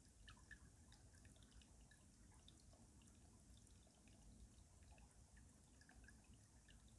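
Faint stream water trickling and dripping beneath winter ice: a steady scatter of small plinks over a low rumble.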